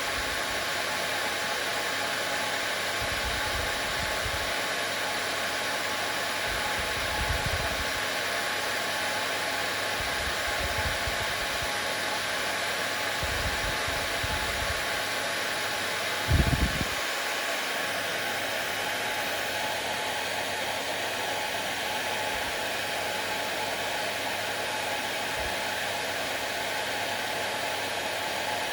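Hair dryer running steadily: an even rushing hiss with a faint steady hum. A few brief low thumps come through, the loudest about sixteen seconds in.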